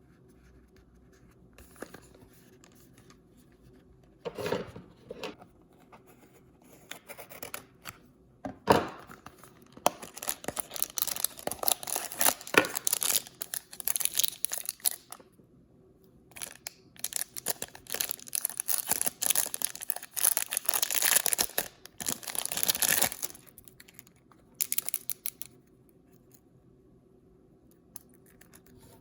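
Blind-bag packaging being torn open and crinkled by hand: a few short rips and rustles, then two long stretches of tearing and crinkling, and one brief rip near the end.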